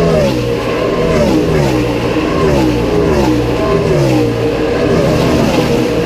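Pack of NASCAR Camping World Truck Series race trucks' V8 engines running at speed, several overlapping engine notes sliding up and down in pitch as the trucks go by one after another.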